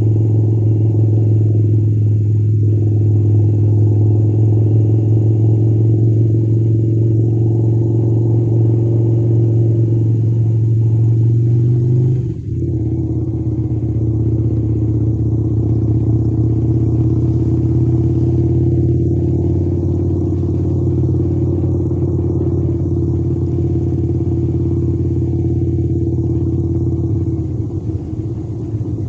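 Harley-Davidson V-twin motorcycle engine running steadily under way. About twelve seconds in the sound dips briefly and the engine note steps down a little, and it eases off slightly near the end.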